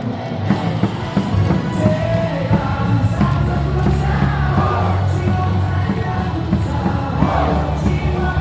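Ballpark cheering music booming over the stadium loudspeakers with a steady bass line, and a crowd singing and shouting along.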